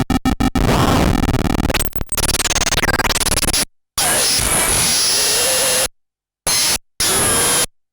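Harsh electronic noise from a Eurorack complex noise generator (the PARATEK/SynthWall Saturn, square-wave oscillators mixed through OR logic). It opens in rapid stuttering pulses, turns into a dense noisy wash with sliding pitches, and cuts out abruptly several times. A thin high whistle sits over the second half.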